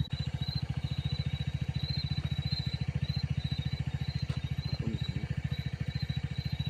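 Motorcycle engine idling, a steady rapid pulse of about thirteen beats a second.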